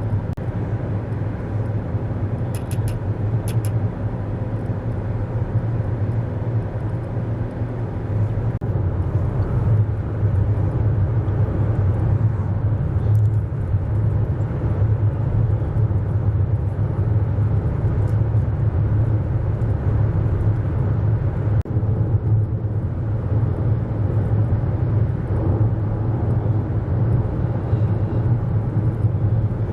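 Steady road and engine noise inside a moving car: a constant low hum under an even rush of tyre and wind noise.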